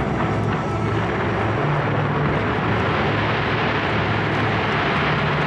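Fireworks display going off in a dense, continuous roar of bursts and crackle, with a low steady hum underneath.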